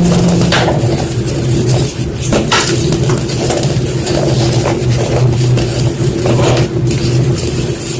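White gym chalk being crushed, giving irregular dry crunches and crumbles. A steady low hum runs underneath.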